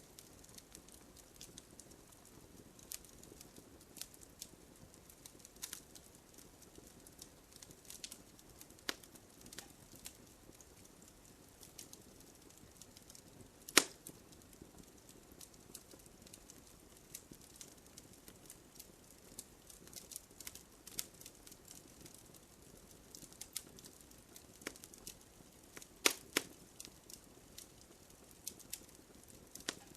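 Wood campfire burning, with a soft steady hiss and irregular crackles and pops. Two loud pops stand out, about fourteen seconds in and again around twenty-six seconds.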